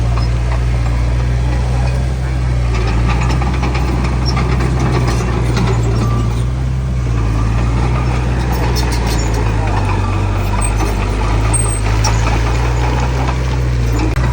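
Heavy diesel engine of earthmoving machinery running steadily: a deep, even drone that shifts slightly in pitch about ten seconds in.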